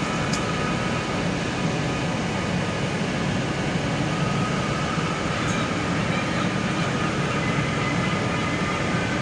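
CrossCountry Voyager diesel multiple unit running at Glasgow Central, a steady rumble with faint high steady tones over it.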